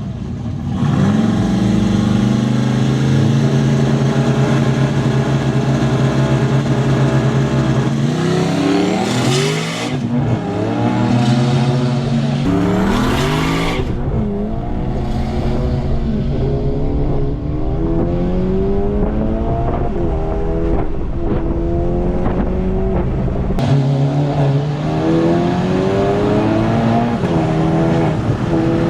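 Turbocharged four-cylinder engine of a Volkswagen GLI held at steady high revs, then revving up in a series of rising sweeps that each drop back at a gear change as the car accelerates. There are two short rushing noises about nine and thirteen seconds in. The front tyres are getting almost no traction on the launch.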